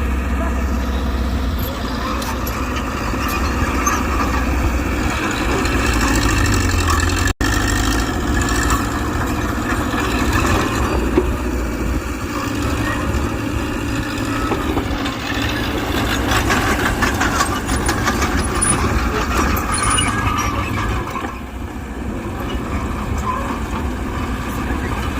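Diesel engine of a Mitsubishi BD2G crawler bulldozer running steadily while working, with a brief break in the sound about seven seconds in.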